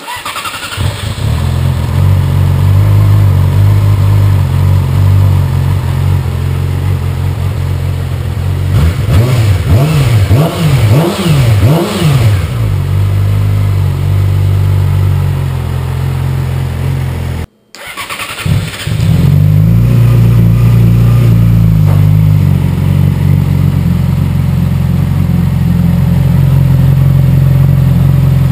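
A 2006 Yamaha R6's inline-four engine idling on its stock exhaust, with about four quick throttle blips in a row around nine to twelve seconds in. Near the end of the first half the sound cuts off abruptly for a moment, then the engine is heard idling steadily again.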